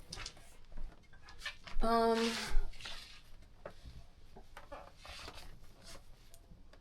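A short voiced sound from a person about two seconds in, followed by faint scattered clicks and light handling noise in a small room.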